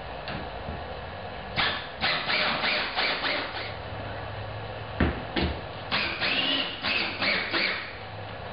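Power drill driving a screw through a board into the wall, run in short bursts, with two sharp knocks about five seconds in.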